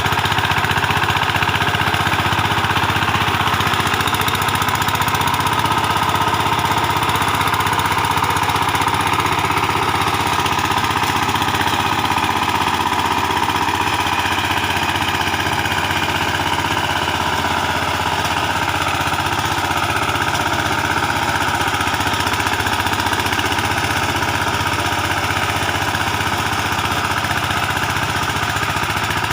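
VST Shakti 130 DI power tiller's single-cylinder direct-injection diesel engine running steadily with a rapid, even knocking beat. Its level dips slightly about halfway through.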